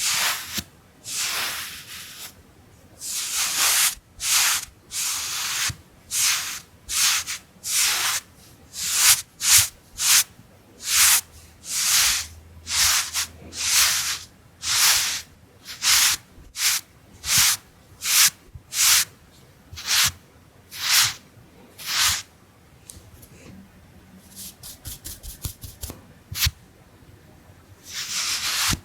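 Round makeup brush swept again and again across the microphone, a soft brushing swish about once a second, with a quick run of light flicks near the end.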